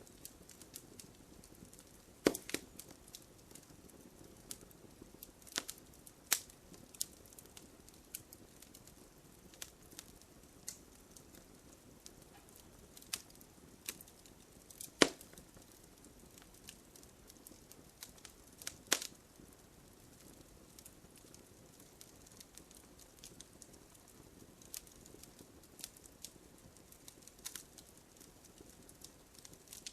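Wood fire crackling, with scattered sharp pops over a soft low hiss; the loudest pop comes about halfway through.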